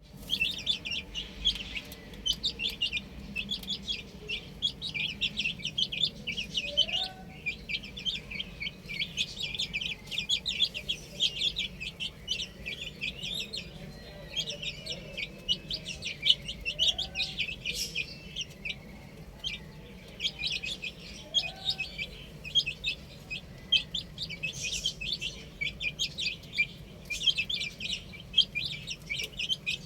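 Many chicks peeping at once, a dense, unbroken stream of short high chirps, with a lower short call now and then.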